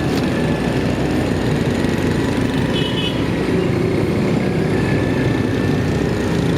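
Motorcycle engine running steadily under way, heard from the rider's position with road and wind noise. A short high-pitched tone sounds briefly about three seconds in.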